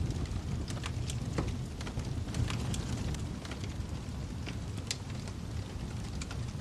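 Wood fire burning in a fireplace: a steady low rumble of flames with irregular sharp crackles and pops, several a second at times, the sharpest a little before the five-second mark.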